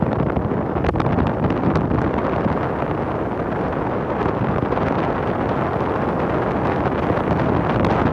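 Wind blowing across the microphone: a steady rushing noise, heaviest in the low end, with a few faint crackles.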